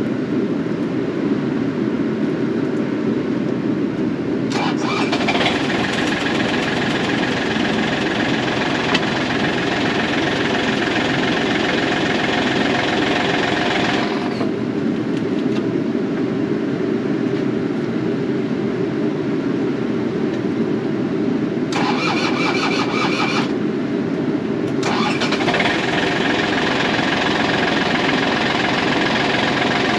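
Takeuchi excavator's diesel engine running steadily. A higher whine comes in about five seconds in, drops away around fourteen seconds, flickers briefly, then returns near the end as the idle is raised and lowered.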